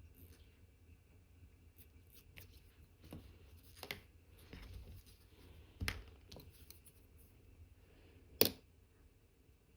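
Small metal watchmaker's tools clicking and tapping against the parts of a watch movement during assembly: a few sharp clicks, the loudest near the end, with faint taps and light scraping between them.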